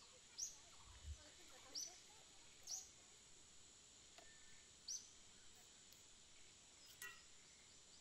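Quiet outdoor ambience: a bird gives a short, high chirp every second or two, over a faint steady high whine.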